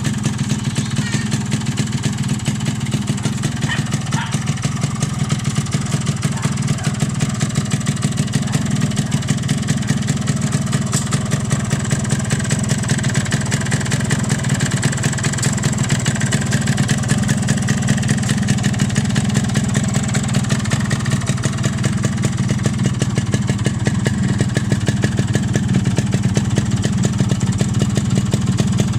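Yamaha RX 115 motorcycle's two-stroke single-cylinder engine idling steadily through its original stock exhaust, with an even, rapid beat.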